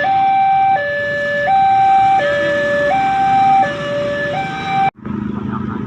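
Two-tone hi-lo emergency-vehicle siren, steadily alternating between a high and a low note about every three-quarters of a second. It cuts off abruptly about five seconds in, followed by a steady low hum.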